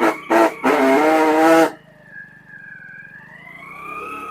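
Motorcycle rear drum brake squealing as the bike rolls forward with the brake held lightly. A loud, harsh screech lasts the first second and a half, then a thinner squeal wavers up and down in pitch over the low running of the engine. The squeal comes from the brake shoe slipping on a glazed, dusty drum.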